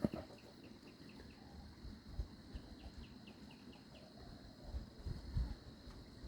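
Steady high-pitched insect trilling, with two quick runs of short repeated chirps in the first few seconds and some low thumps near the end.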